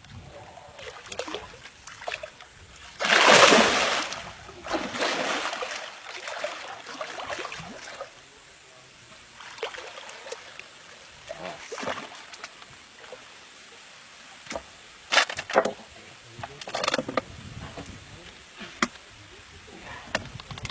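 Water splashing: a loud splash about three seconds in, a longer stretch of splashing after it, then a few short splashes.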